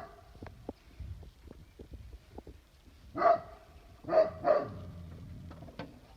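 Dog barking: one bark right at the start, then three short barks past the middle, the last two close together.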